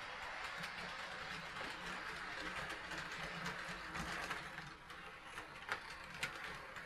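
HO-scale model train running on the layout: the locomotive's small electric motor and gears whir steadily while the wheels click over the rail joints, with a few sharper clicks near the end.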